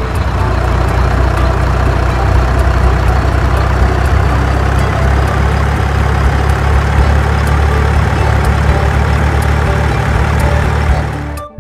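A truck engine running steadily, a loud low rumble that cuts off suddenly near the end.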